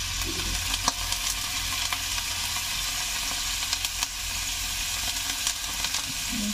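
Chicken pieces sizzling in a hot wok over a gas burner: a steady frying hiss with scattered small crackles and pops.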